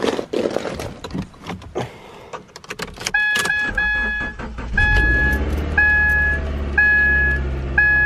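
Car engine starting and settling into a steady cold idle about four seconds in, left running to warm up and defrost the iced-over car. Before that come clicks and knocks with a jingle of keys. From about three seconds in, a dashboard warning chime repeats about once a second.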